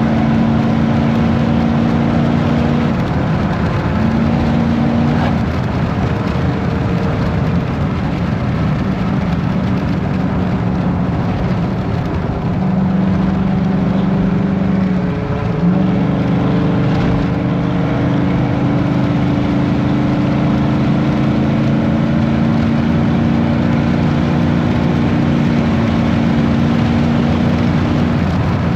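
Ford F-150's engine through a custom side-exit exhaust, heard from inside the cab on the move: a steady engine drone that shifts pitch a few times, with a slow rise in the middle. Wind and road noise from a cracked window run under it.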